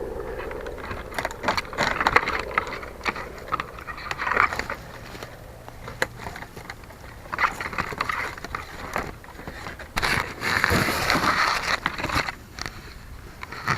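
Irregular rustling, scraping and crackling with sharp clicks, close to the tail-mounted keychain camera of an RC Super Cub caught in trees: branches and leaves rubbing against the plane and camera. The plane's electric motor is not running.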